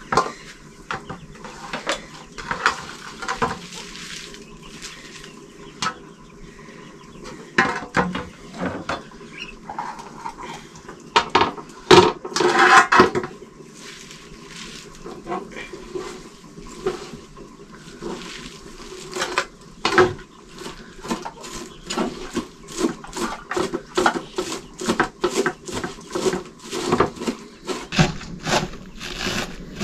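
Kitchen knife chopping on a wooden chopping board: a series of sharp taps. There is a louder clattering stretch near the middle, and the taps settle into a quick, even chopping rhythm of about two to three a second in the second half.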